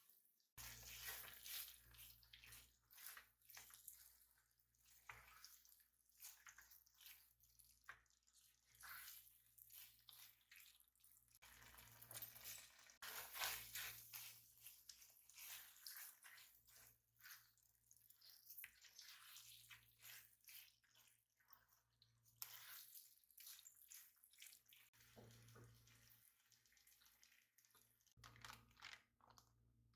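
Faint kitchen preparation sounds: many small clicks, taps and scrapes of food and utensils being handled, with a low steady hum underneath.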